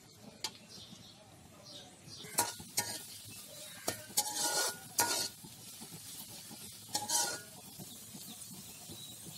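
Sliced onion, green chilies and crushed garlic sizzling in hot oil in a wok, while a steel spoon stirs them, scraping and clanking against the pan several times.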